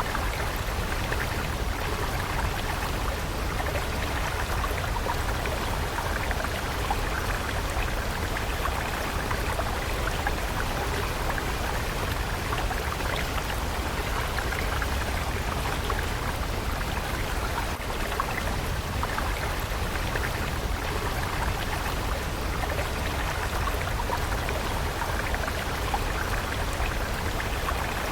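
Stream water running steadily, an even rushing and trickling with no breaks.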